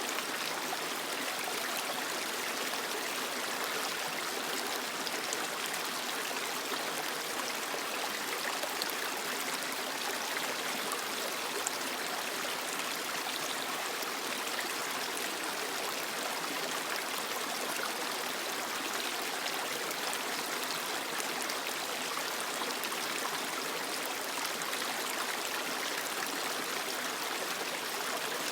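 A creek flowing steadily over rocks: an even, unbroken rush of running water with small splashes and trickles.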